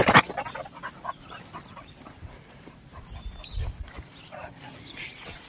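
A dog panting, after a short loud burst of noise right at the start.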